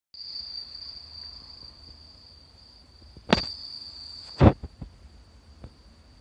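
A steady, high insect trill, like a cricket chirring. Two loud sharp knocks come about three and four and a half seconds in, followed by a few lighter taps.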